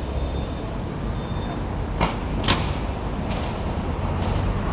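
Outdoor street ambience: a steady low rumble, with four short sharp clicks or knocks between about two and four seconds in.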